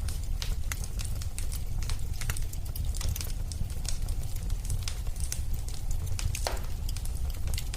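Wood fire crackling in a fireplace: a steady low rumble with many irregular sharp pops and snaps, and a brief falling squeak about six and a half seconds in.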